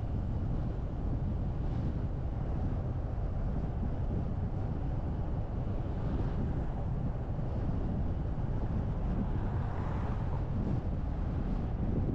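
Steady low rumble of a car driving: road and wind noise, with a brief brighter swell of hiss about ten seconds in.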